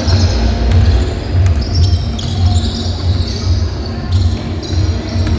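Basketball being dribbled on a hardwood court, the bounces coming about twice a second.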